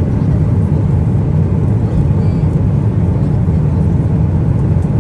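Steady low rumble of cabin noise inside a Boeing 777-300ER: engine and airflow noise heard from an economy seat.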